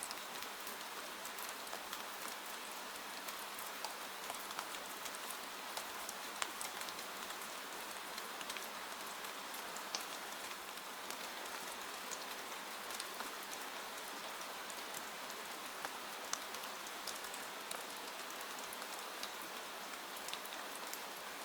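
Steady rainfall: an even hiss of rain with individual drops ticking sharply on a hard surface here and there.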